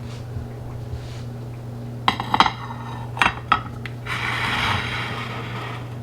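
Metal utensils clinking against dishes a few times, then a scraping noise lasting about a second and a half, over a steady low hum.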